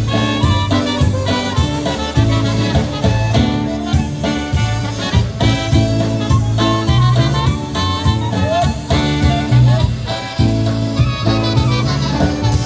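Live polka band playing an instrumental stretch of a Polish wedding polka: horns over a steady bass and drum beat.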